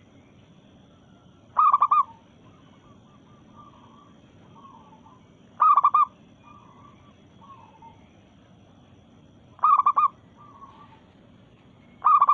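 Female zebra dove (perkutut) calling: a loud, quick run of a few cooing notes about every four seconds, each followed by a few softer coos. The call is heard four times, the last right at the end.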